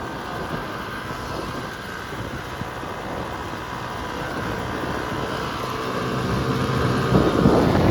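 Yamaha YZ250 two-stroke dirt bike engine running at low revs while riding, building gradually. Near the end it gives a sharp, loud rev.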